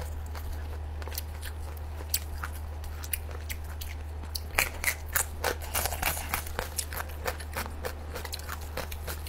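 Close-miked eating: a few soft chewing clicks, then crisp crunching as a carrot stick is bitten and chewed from about four and a half seconds in, thinning out near the end. A steady low hum runs underneath.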